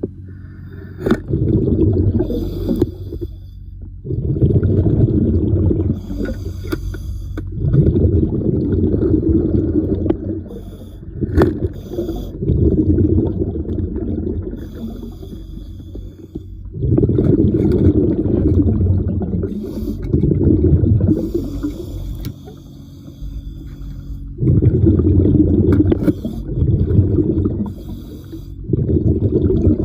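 Diver breathing underwater: bursts of exhaled bubbles rumble every few seconds, with a thinner hiss of inhalation between them.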